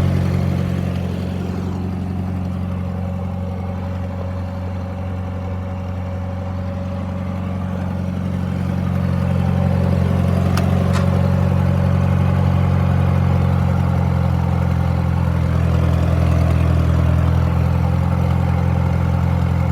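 1950 Massey-Harris tractor engine running steadily at idle, warming up after a cold start. It gets a little quieter for several seconds, then louder again about nine seconds in.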